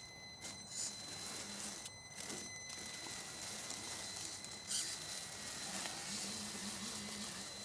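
Radio-controlled scale crawler truck moving over the forest floor: faint crackling and rustling of leaves and twigs under the tyres with a thin steady whine, and a short knock about five seconds in.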